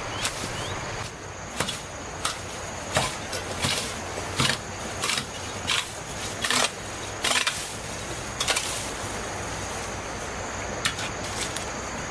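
Repeated short sweeping strokes on the ground, about one to two a second, pausing briefly near the end before starting again.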